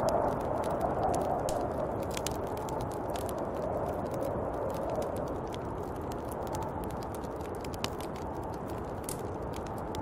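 Snowstorm wind blowing steadily, swelling and easing in slow gusts, with scattered light crackling ticks throughout.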